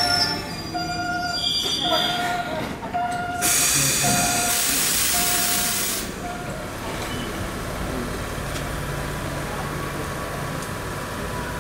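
Enoshima Electric Railway (Enoden) train's wheels squealing in short repeated tones for the first few seconds. A loud burst of air hiss follows from about three and a half to six seconds in, then a steady, quieter low hum.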